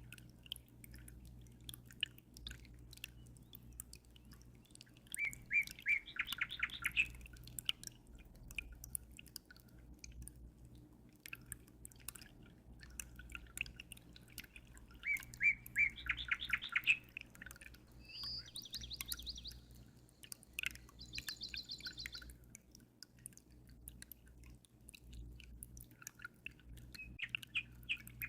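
Birds singing short, fast trilled phrases, four or five times, over a constant patter of dripping, trickling water and a low steady hum.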